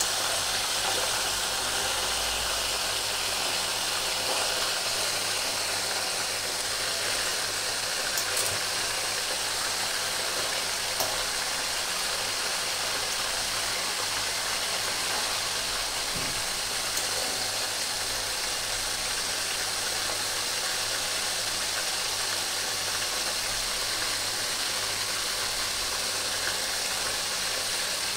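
Beef seekh kebabs shallow-frying in oil in a karahi on a low flame, a steady sizzle, with a few light clicks of a fork against the pan.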